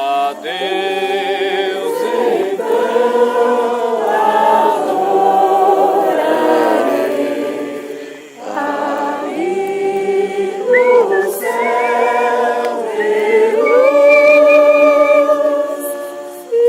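A group of people singing a hymn together, in long held phrases with a brief breath break about halfway through.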